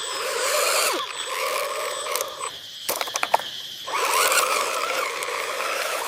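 Small electric motors and gearboxes of a radio-controlled construction model whirring in stop-start stretches of a second or so, with a quick run of clicks about halfway through.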